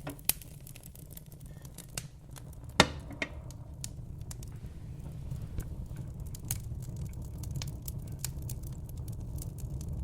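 Wood fire burning in a fireplace, crackling with scattered sharp pops over a steady low rumble; the loudest pop comes a little under three seconds in.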